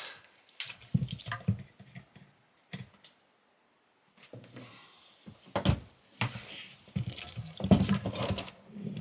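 Clicks and knocks of a plastic high-voltage connector being handled and pushed at a junction box socket, in short bunches with a pause in the middle; the connector will not seat.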